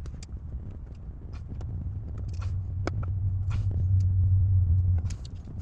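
A low steady rumble that swells over a few seconds and then drops off about five seconds in, with scattered light clicks and knocks over it.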